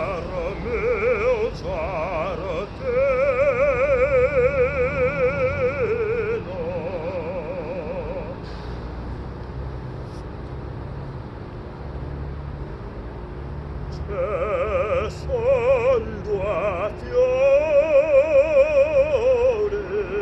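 A person singing classical-style vocal exercises: held vowel notes with wide, even vibrato in short phrases. There is a quieter pause in the middle, then more phrases, with a steady low rumble underneath.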